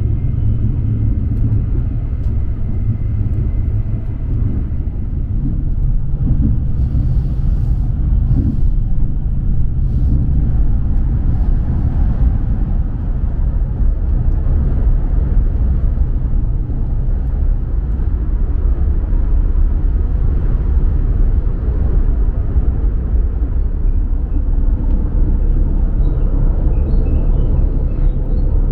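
Steady low rumble of the Hayabusa Shinkansen running, heard inside the passenger cabin, with a few light clicks about seven to ten seconds in.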